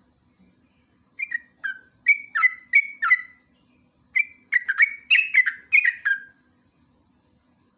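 Yellow-vented bulbul (trucukan) singing a chattering run of short, sharp notes that slide down in pitch. It sings one phrase, pauses about a second, then gives a faster, denser phrase that stops a little after six seconds in.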